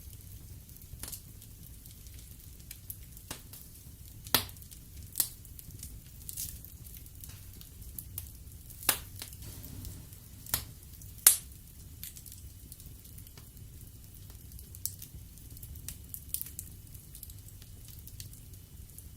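Wood fire burning in a fireplace: irregular crackles and sharp pops of burning logs over a low steady rumble of flame, with a few louder snaps clustered between about four and eleven seconds in.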